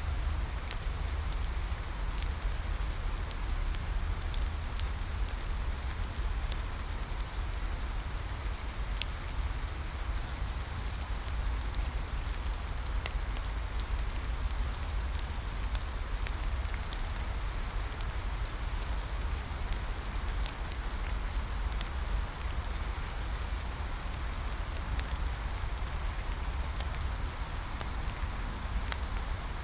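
Steady rain falling, with a low rumble underneath and scattered sharp crackles and pops from a wood bonfire.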